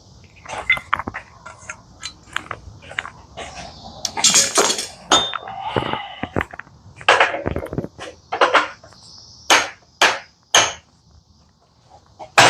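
A series of irregular knocks and clatters with a few longer scrapes, over a steady high hiss.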